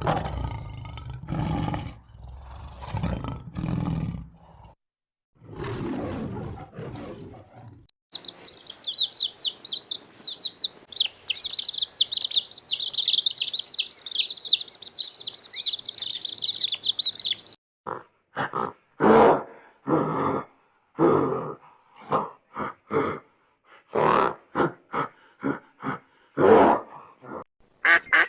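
Animal calls in sequence: low, rough grunting calls at first, then a dense chorus of small birds chirping for about ten seconds, then a run of short, loud calls repeated roughly once or twice a second.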